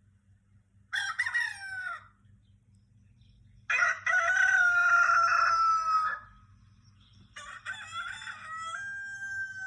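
Rooster crowing three times: a short crow about a second in, a longer and louder crow about four seconds in, and a third starting about seven seconds in.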